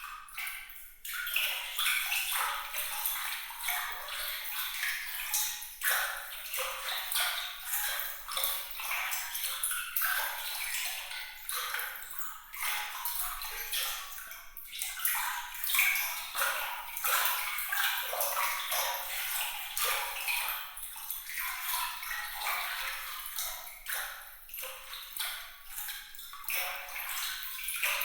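Bright, sparkling water: a continuous stream of small splashes and droplet pings, high and thin with almost no low end, the loudness rising and falling quickly without ever pausing.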